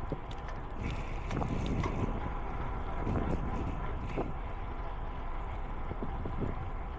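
Wind blowing across the microphone while cycling, a steady low rumble.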